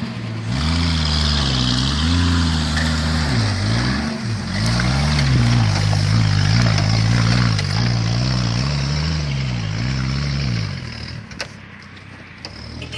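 1977 Jeep CJ5's engine driving under load, its pitch rising and falling again and again with throttle and gear changes. About eleven seconds in it drops away and goes much quieter.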